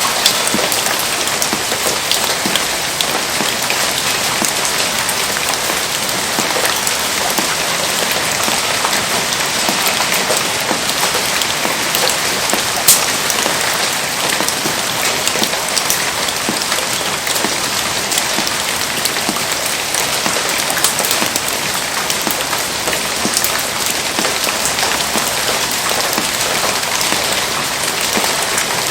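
Heavy rain falling steadily, a dense hiss of countless small drop impacts, with one sharp snap about halfway through.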